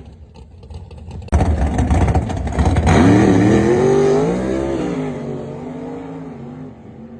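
Straight-axle gasser's engine ticking over, then suddenly revved hard about a second in, loud and rough. The engine pitch climbs and wavers, then the sound fades away as the car pulls off.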